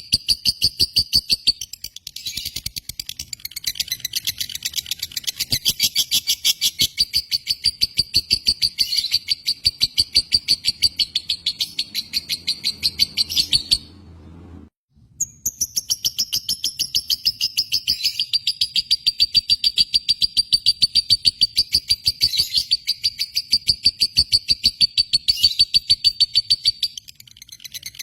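Lovebird chattering in a fast, unbroken string of shrill high chirps, many to the second. The chatter breaks off for about a second midway, then starts again.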